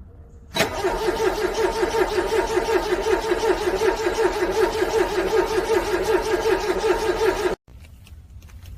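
A car's starter cranking a cold engine in freezing weather, with a steady, rapid pulsing beat, and the engine never catches. The cranking starts abruptly and cuts off suddenly about seven and a half seconds in.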